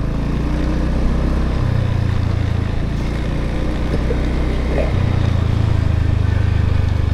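Motorbike engine running steadily under way, its note changing about a second and a half in and again about five seconds in.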